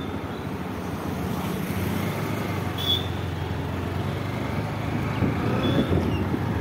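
Motorcycle engine running with road and wind noise as the bike rides along, growing slowly louder toward the end. A brief high chirp sounds about three seconds in.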